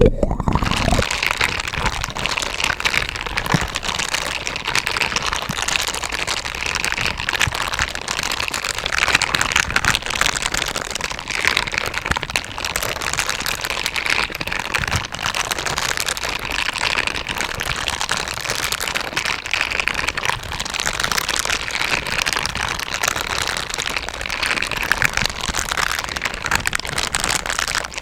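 Silicone brush gloves being brushed and scratched: a dense, continuous, crackly bristling.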